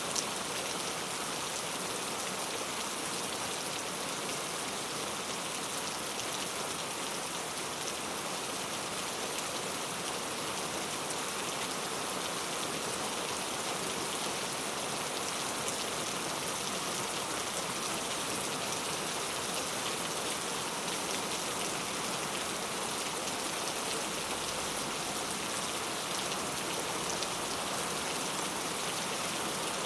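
Heavy rain falling steadily, an even dense hiss of drops striking hard surfaces with faint individual drop ticks.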